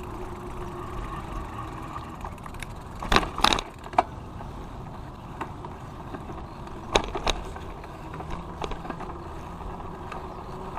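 Bicycle riding along pavement: steady rolling noise from the tyres and drivetrain, with a short cluster of sharp rattling knocks about three to four seconds in and again about seven seconds in.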